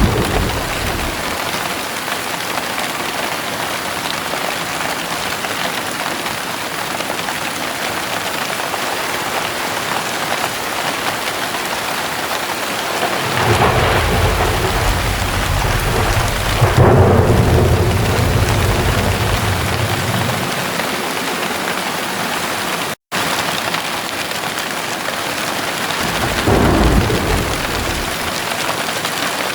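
Steady heavy rain with thunder: a long rolling rumble swells about halfway through and fades over several seconds, and a shorter rumble comes near the end. The sound cuts out for an instant about two-thirds of the way through.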